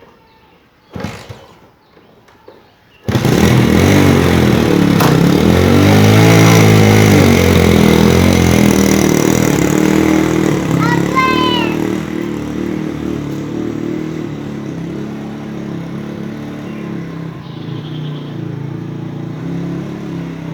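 1990s Bajaj Caliber's single-cylinder four-stroke engine bursting into life about three seconds in, revving up and back down, then settling into a steady idle.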